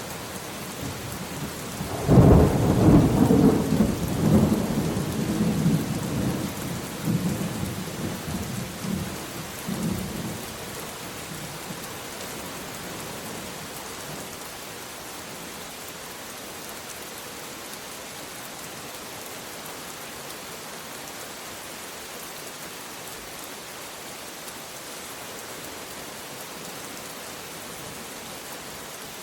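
Thunderstorm: a roll of thunder breaks about two seconds in and rumbles away over several seconds, dying out around ten seconds in. Steady rain hisses throughout.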